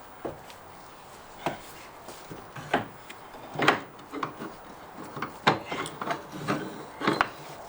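Irregular knocks, clacks and scrapes of parts and hand tools being handled during engine-removal work, about nine sharp hits spaced unevenly.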